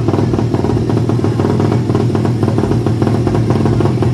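Drag-racing underbone (bebek) motorcycle engine running steadily, a fast even firing pulse with no rise or fall in pitch.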